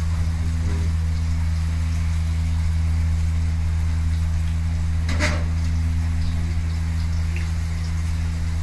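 A steady low hum under the faint sizzle of a piece of beef frying with garlic in a wok, with one sharp metallic clank about five seconds in.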